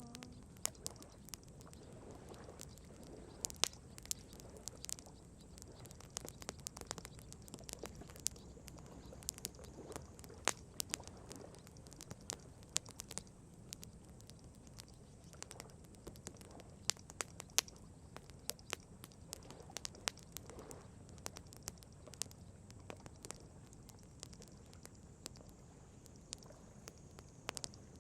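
Wood campfire crackling: irregular sharp pops and snaps, several a second at times, over a faint low steady rumble.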